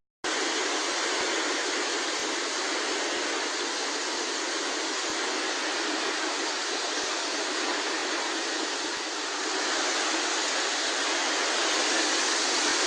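Steady rushing of fast-flowing floodwater, starting after a brief silent gap and growing slightly louder near the end.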